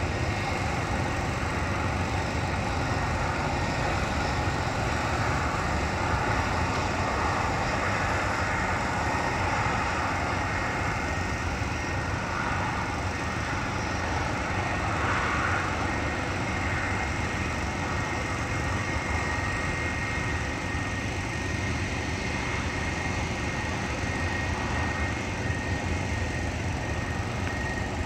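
Jet airliner engines running steadily while the aircraft taxi in line for takeoff: a constant low rumble with a thin, steady high whine.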